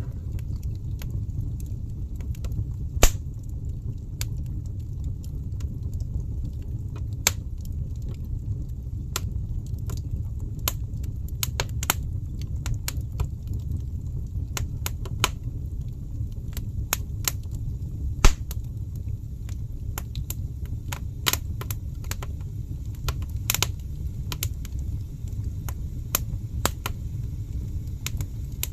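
Wood fire burning in a fireplace, crackling with irregular sharp pops, two of them louder, about 3 and 18 seconds in, over a steady low rumble.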